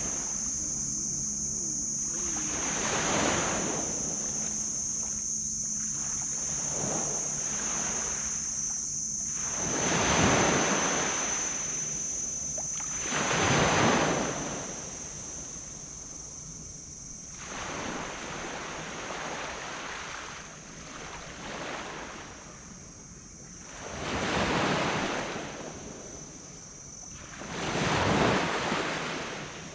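Small tropical waves breaking on a black sand beach. About five surges swell and wash out over a few seconds each, the loudest about ten and fourteen seconds in, over a steady high-pitched whine. A faint low hum is there during the first ten seconds.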